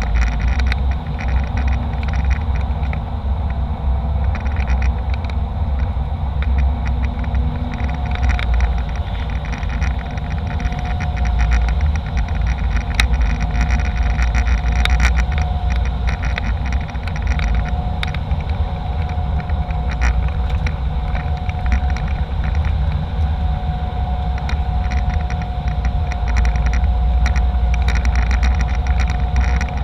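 Jet airliner cabin noise: the steady low rumble of the engines and airflow, with a faint steady whine and scattered light rattles.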